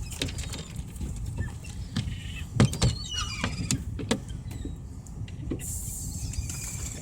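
Low wind rumble on the microphone with scattered knocks and clicks, and a short high squealing gull call about three seconds in.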